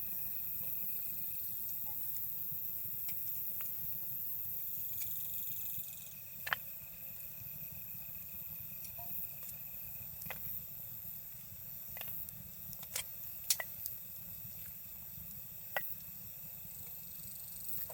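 Wood campfire crackling with a dozen or so sharp, scattered pops, the loudest about two-thirds of the way in. Under it runs a steady chorus of night insects trilling, which drops a little about six seconds in.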